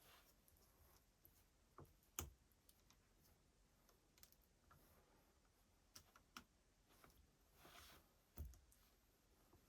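Faint, scattered clicks and light knocks of small parts or tools being handled on a bench, about five in all, with a short rustle near the end.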